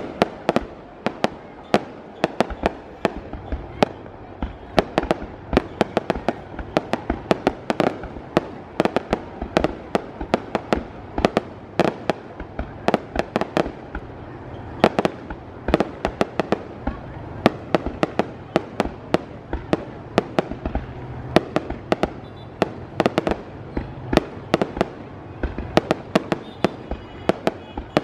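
Fireworks display: a rapid, irregular run of aerial shell bursts and bangs, several a second, over a continuous rumble of launches and echoes.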